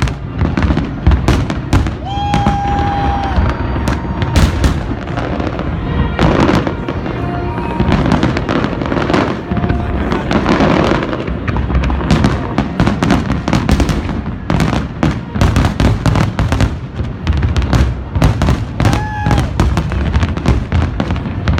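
Large aerial fireworks display: a dense, continuous barrage of bangs and crackles in quick succession, with a few short whistles about two seconds in and near the end.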